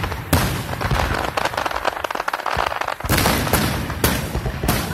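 Aerial fireworks going off: rapid crackling throughout, punctuated by several heavy bangs of bursting shells.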